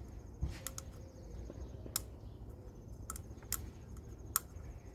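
Light, irregular clicks and ticks, about seven in all, from handling a plastic oil filter housing cap while a new rubber O-ring is stretched over its threads.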